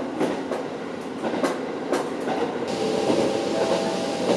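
KiHa 40 diesel railcar running along the line, heard from inside: the wheels click sharply over rail joints over a steady rumble. About two-thirds in the sound changes abruptly to a steadier running noise with a faint steady whine.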